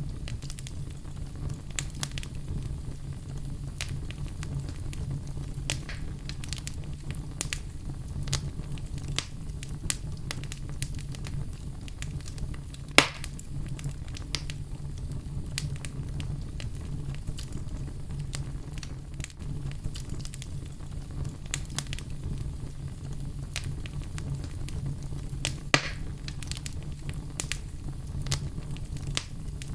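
Wood fire burning in a fireplace: a steady low rumble of the flames with irregular crackles and snaps, and two sharper pops about 13 and 26 seconds in.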